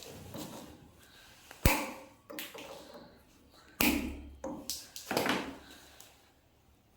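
Sharp knocks and taps on wood, as in hammering: a few separate strikes, the loudest under two seconds in and another near four seconds, with lighter taps between.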